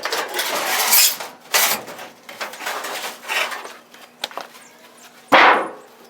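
Loose sheet metal from a truck's roof skin scraping and rattling as it is pulled free, in a run of irregular scrapes with a louder scrape about five seconds in.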